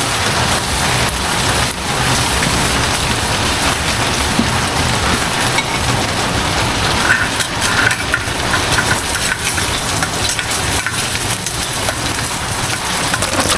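Heavy rain pouring steadily: a dense, even hiss with many small drop impacts.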